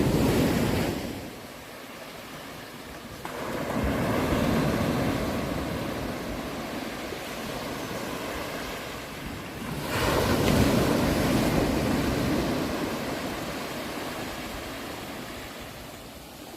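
Ocean waves breaking and washing on the shore in slow surges. One surge fades in the first second, another rises about three seconds in, and the loudest comes about ten seconds in and slowly dies away.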